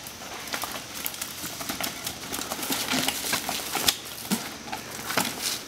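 Irregular clicks, knocks and rattles of mountain bikes riding over rocks and roots on a technical trail section.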